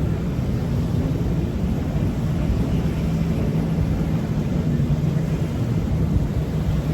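Steady engine drone: a constant hum over a low rumble, with no change in pitch.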